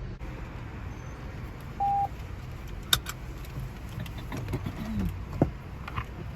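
Steady low rumble of car wash machinery heard from inside a car. A single short beep comes about two seconds in, followed by a sharp click and several smaller clicks and knocks.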